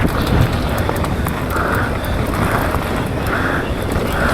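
Full-suspension 160mm-travel mountain bike descending at speed: wind rushing over the onboard microphone, with tyre roar and the bike rattling and clicking over rough ground.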